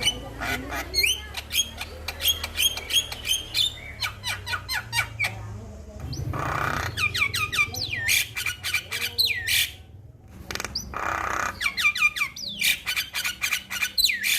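Male Javan myna singing: fast runs of harsh clicks and chatter mixed with repeated downward-sliding whistles and a couple of rasping squawks, with a brief pause about ten seconds in.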